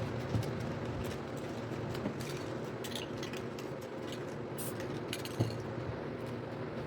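Spray painting: short hisses from an aerosol spray paint can and light clinks, over a steady low hum.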